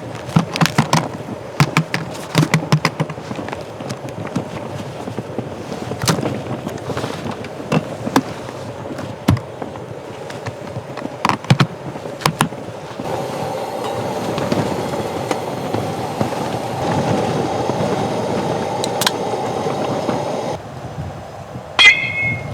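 Tent fabric snapping and cracking irregularly in gusts of a strong blizzard wind. A steadier rush of wind builds up partway through and then stops abruptly.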